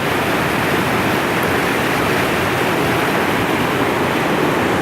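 River water rushing steadily, a loud, even flow noise without breaks.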